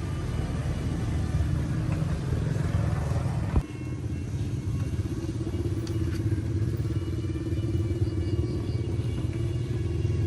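An engine running steadily, with a single sharp knock about three and a half seconds in.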